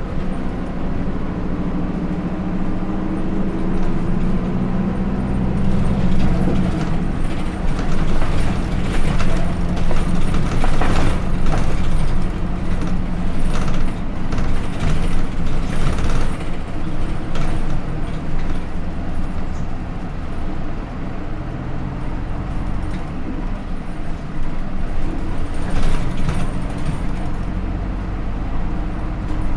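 Onboard running sound of a Hino Rainbow II bus: its Isuzu 4HK1-TCH four-cylinder turbodiesel pulls through the Aisin automatic. The engine note drifts in pitch early on, and from about seven to eighteen seconds in there is a run of clatters and knocks over the road noise.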